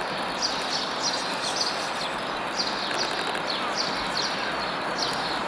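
Small birds chirping: short, high, falling chirps about two or three a second, over a steady hiss of outdoor background noise.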